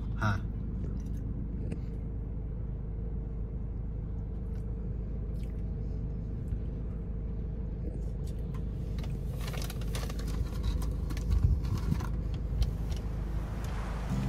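Steady low rumble of a parked car's engine idling, heard from inside the cabin. A few light clicks and knocks come in the second half.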